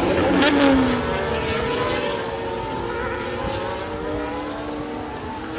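Formula 1 cars' 1.6-litre V6 turbo-hybrid engines at racing speed going past. The loudest car passes about half a second in, its pitch dropping as it goes by, and other cars follow at lower level.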